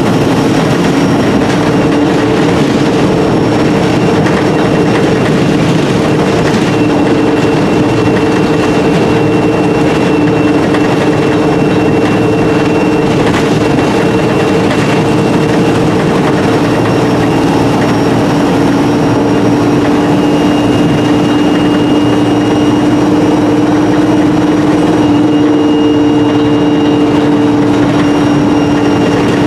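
Alexander Dennis Enviro300 bus on an ADL E30D chassis with a Voith four-speed automatic gearbox, heard from on board while running steadily along. The engine and driveline drone holds two steady low tones plus fainter high whines, and the pitch rises slightly in the second half. The title describes the bus's exhaust as blown.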